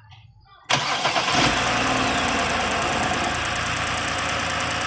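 BMW 328i's inline-six engine cuts in suddenly under a second in and then runs at a steady idle. The loose injector connectors are wedged down with a piece of 2x4 to stop the misfires on three cylinders from open injector circuits; a little roughness is still there, "not much".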